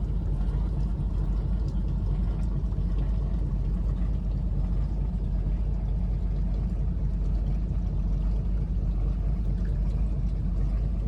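A fishing boat's engine running steadily under way, a continuous deep rumble.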